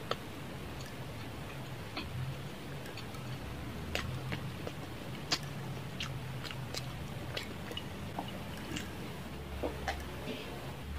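Close-miked mouth sounds of eating fried chicken: chewing, lip-smacking and finger-licking, heard as scattered sharp wet clicks at irregular times over a low steady hum. Near the end she drinks from a glass.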